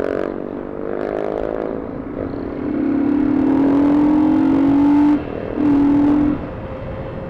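Motorcycle engine accelerating under way, its pitch rising slowly for a couple of seconds, dropping away briefly about five seconds in, then pulling again, over steady road and wind noise.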